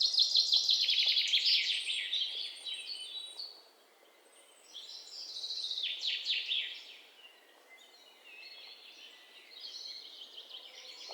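Songbirds singing with fast, high chirping trills, in three bouts separated by short lulls.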